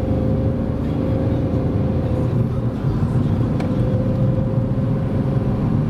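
Skoda Fabia's 1.4 TDI three-cylinder pump-injector turbodiesel pulling steadily under load, heard from inside the car with road noise, as the engine comes onto boost above about 2000 rpm.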